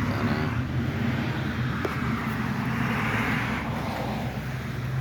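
Road traffic: a car passing, its tyre noise swelling and fading over a couple of seconds around the middle, over a steady low hum.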